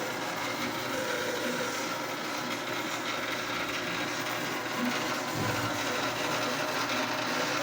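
Old Brastemp top-load washing machine running with a steady mechanical hum and whir. The machine has a fault that keeps it from agitating or spinning.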